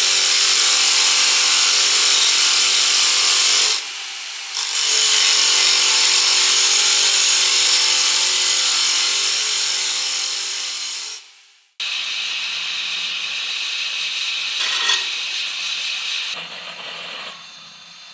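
Electric power tool running under load on a workpiece: a steady motor whine under a loud hiss. It drops off briefly about four seconds in, picks up again, and runs down a little past the middle. A quieter continuous noise follows.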